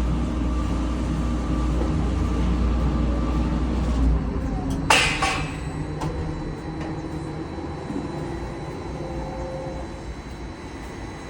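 Crane truck's engine running steadily, its deepest rumble dropping away about four seconds in as it eases off, then a sharp clank of steel about five seconds in, followed by a second lighter one.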